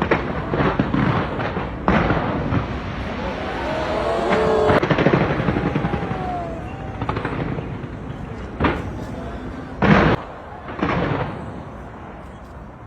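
Display fireworks going off: a series of sharp bangs and booms over continuous crackling. The loudest bang comes about ten seconds in.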